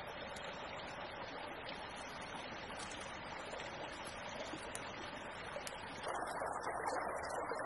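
A small creek running, a steady rush of water. About six seconds in it switches to a louder, duller rush.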